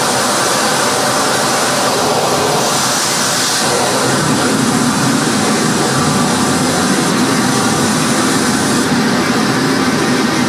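Loud, continuous wall of harsh noise music: dense distorted static with no beat or melody, shifting slowly in texture. A brighter hiss swells for about a second about three seconds in, and the low end thickens from about four seconds on.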